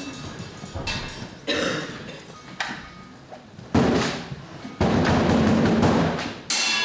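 Live stage percussion: a few separate drum strikes, then a loud sustained stretch of about two seconds that cuts off suddenly near the end.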